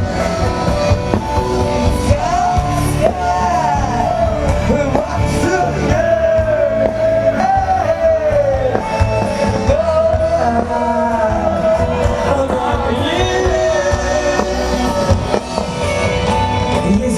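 Rock band playing live with a sung lead vocal over amplified guitars, bass and drums.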